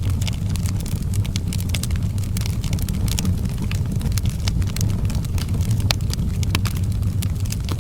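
Outdoor wood fire crackling, with frequent sharp irregular pops and snaps over a steady low rumble of the flames.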